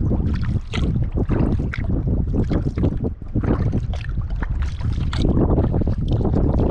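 Kayak paddle strokes splashing and dripping in the water, with a steady low rumble of wind on the microphone.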